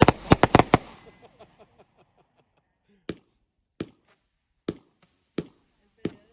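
Consumer fireworks going off. A rapid volley of sharp bangs trails off into fading crackle in the first two seconds, then single sharp bangs follow about every 0.7 seconds.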